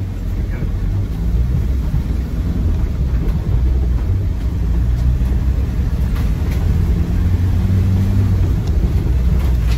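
A Land Rover Defender 90's 2.2 TDCi four-cylinder diesel engine heard from inside the cabin while driving, a steady low drone mixed with road noise. It grows louder in the first second, then holds steady.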